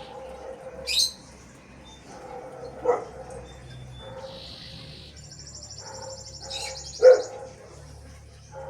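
A dog barks twice, about three seconds in and again near the seven-second mark, while birds chirp, one giving a sharp high call about a second in and a buzzy trill lasting about two seconds.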